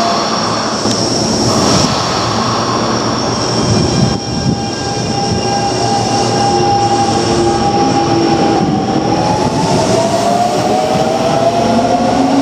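Keio Line electric train running, with motor whine over the rail noise: a steady tone through the middle, then several tones rising in pitch over the last few seconds as the train picks up speed.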